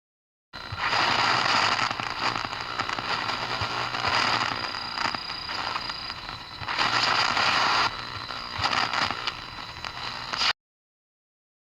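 A loud crackling, static-like noise starts suddenly half a second in, swells and fades several times, and cuts off abruptly after about ten seconds.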